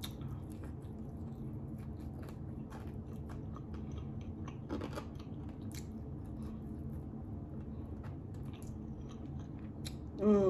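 A person chewing and eating close to the microphone: wet mouth sounds and many small clicks over a steady low hum. A brief voiced sound near the end is the loudest moment.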